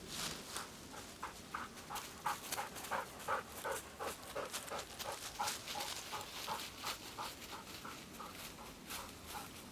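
A dog panting quickly and steadily, about three pants a second.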